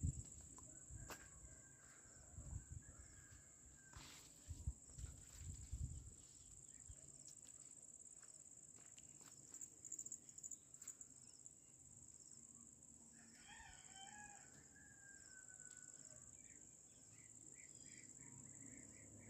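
A rooster crows faintly once, a single long call about two-thirds of the way through, over a steady high-pitched insect drone. A few soft low thumps come in the first third.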